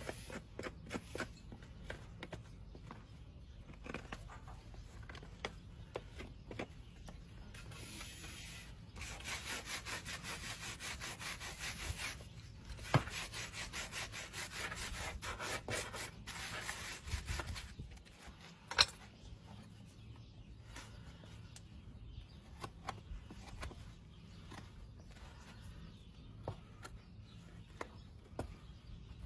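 Farrier's rasp filing a horse's hoof: scattered scrapes and taps, with a run of quick, even rasp strokes through the middle and a couple of sharp knocks.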